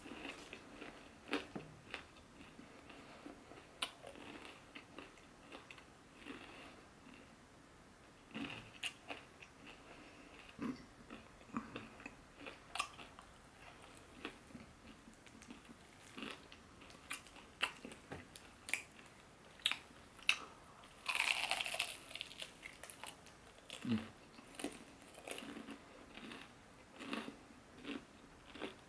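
Chewing and biting into crispy fried chicken: scattered crackly crunches of the breaded crust, with one longer, louder crackle about three-quarters of the way through.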